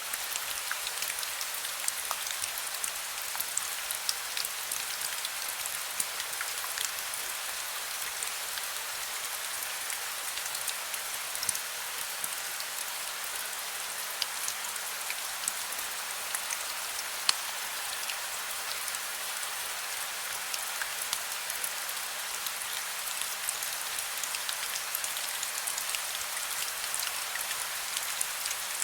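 Heavy rain falling steadily, a dense even hiss with many single drop hits ticking through it.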